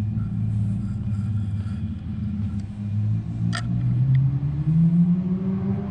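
Low, engine-like rumble with a steady pitch that rises about four seconds in, like a motor revving up. A single sharp click about three and a half seconds in.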